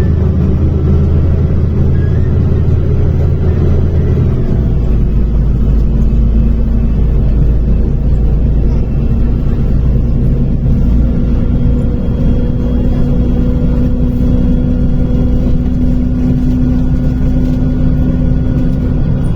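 MAZ-105 city bus's diesel engine and drivetrain heard from inside the cabin while driving, a loud low drone. The engine note shifts about four seconds in, then a steady tone climbs slowly as the bus gathers speed.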